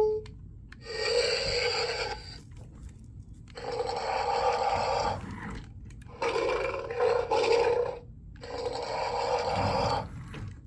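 Electronic dinosaur roar sound effects from a VTech Switch & Go Dinos velociraptor toy's small speaker: about four roars, each lasting a second or two, with short gaps between them.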